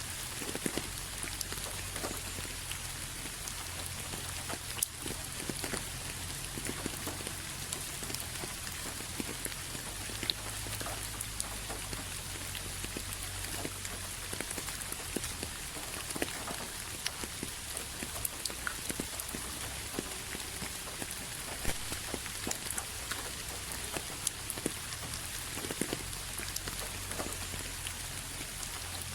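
Steady rain falling, with many individual drops ticking sharply against a surface throughout.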